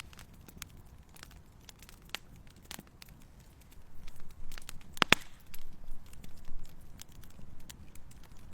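Wood fire in a fireplace crackling, with irregular sharp pops over a low rumble; the pops grow more frequent about halfway through, and the loudest comes about five seconds in.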